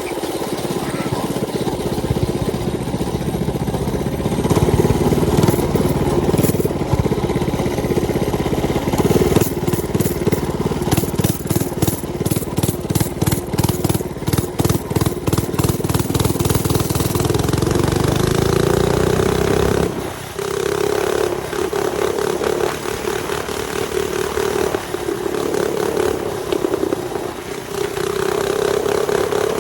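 Mini bike's small engine running under throttle while riding, with a heavy, rapidly pulsing rumble. About twenty seconds in the low rumble drops away abruptly and the engine carries on at a steadier note.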